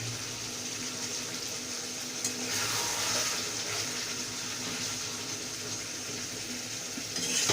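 Thick chicken curry sizzling in a pan over a gas flame, a steady hiss that swells a little about three seconds in. Stirring clatter starts near the end.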